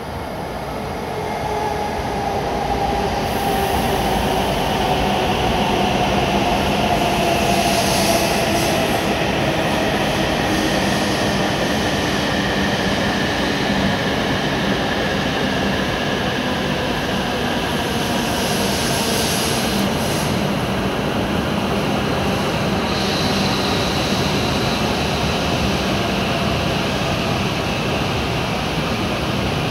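JR West W7 series Shinkansen train pulling into the platform and slowing: a steady loud rush of wheels and air that swells over the first few seconds, with a motor whine falling in pitch as it decelerates. Two brief hisses come partway through.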